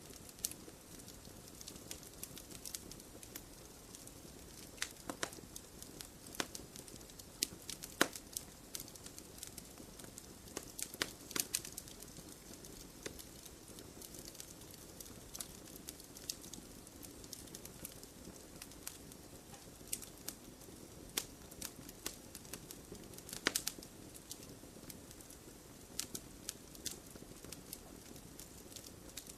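Campfire of burning wood in a stone fire pit crackling, with irregular sharp pops and snaps over a low steady hiss; a few louder pops stand out about eight, eleven and twenty-three seconds in.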